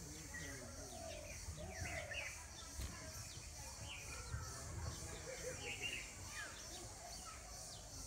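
Faint chirping of small birds: short, quick downward notes scattered throughout, over a low background rumble.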